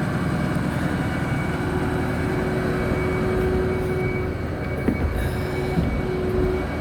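Ford 6.4 Power Stroke V8 diesel running at a raised idle of a little over 1200 RPM with the PTO engaged, a steady drone with a thin steady whine over it. A few light clicks about five seconds in.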